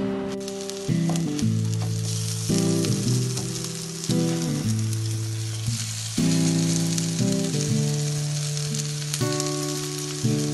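Egg-dipped bread slices shallow-frying in oil in a nonstick pan, with a steady sizzle. Background music of sustained notes plays over it.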